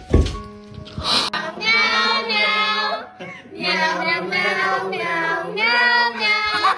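A high voice singing or wailing long, slightly wavering held notes in three phrases, after a single thump at the start.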